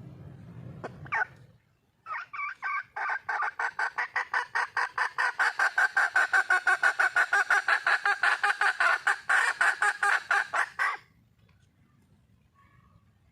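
Wild junglefowl hen calling to attract a male: a fast, even run of short clucking notes, about five a second, that goes on for some nine seconds and then stops abruptly.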